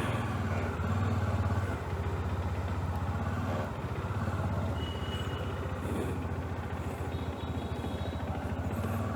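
Motorcycle engine running steadily while riding, a low even hum of rapid firing pulses.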